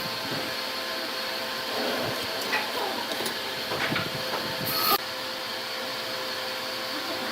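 Wood lathe running with a steady motor hum, marked by a couple of fixed tones. A brief sharp noise rises near five seconds in and cuts off suddenly.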